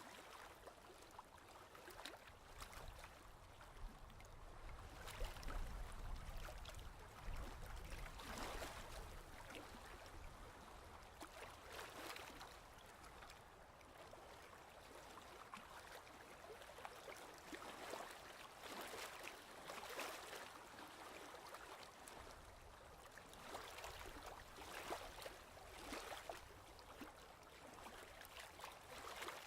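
Faint ocean waves washing, soft surges of water every few seconds.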